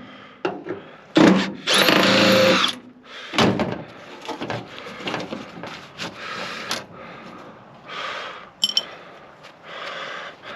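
Power drill-driver run in short bursts, backing out the screws that hold a microwave oven's transformer. The longest and loudest run comes about a second in and lasts about a second and a half, followed by several shorter, quieter bursts.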